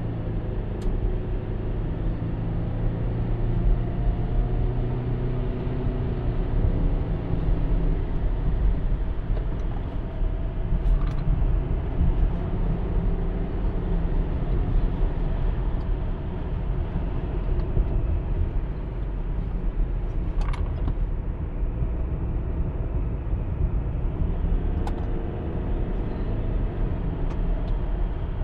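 Subaru Legacy 2.0 petrol flat-four with CVT, heard from inside the cabin: a steady engine drone with tyre and road rumble as the car gathers speed.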